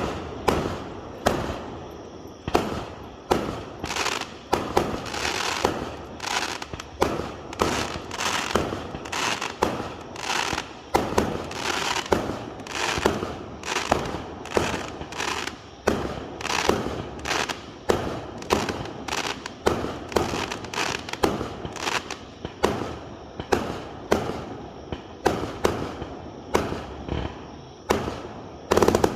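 Fireworks going off in quick succession: sharp bangs about one to two a second, each fading out in a crackling tail.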